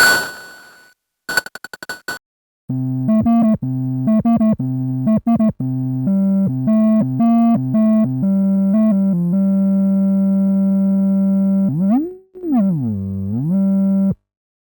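SxLab Fortress synthesizer playing a patch: a single struck percussive hit that rings away, a quick run of clicks, then a line of short pitched notes. The line settles into one held note that swoops down in pitch and back up, then cuts off suddenly.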